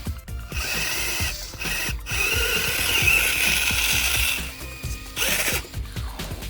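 Background music over the mechanical whirring and clicking of a small geared motor, with several abrupt edit cuts.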